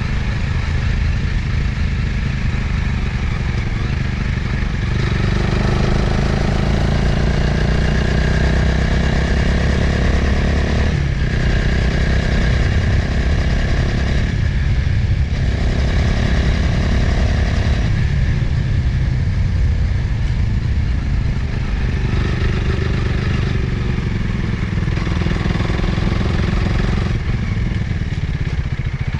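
Motorcycle engine running at road speed, its pitch stepping up and down several times with throttle and gear changes, with a steady rush of wind on the microphone.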